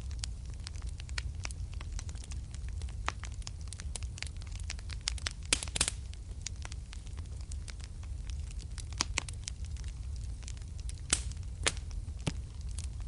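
Wood fire burning in a fireplace: a steady low rumble of flame under irregular sharp crackles and pops, with a burst of louder pops a little before the middle and two sharp snaps near the end.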